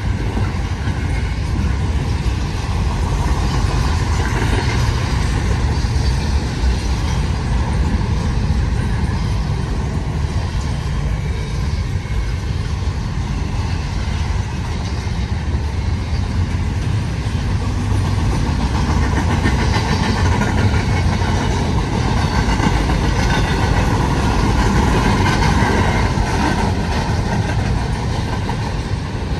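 Intermodal freight train rolling past close by: a steady, loud rumble of its cars on the rails, with no horn.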